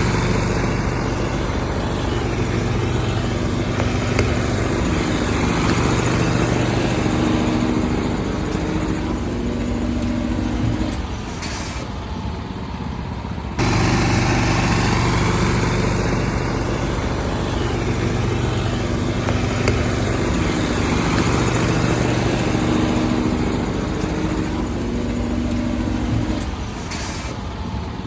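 Truck engine running steadily, with a short hiss twice.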